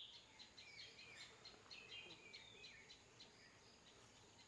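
Faint birdsong: quick high chirps and short gliding whistled notes from small birds, mostly in the first three seconds, over a faint steady hiss of outdoor ambience.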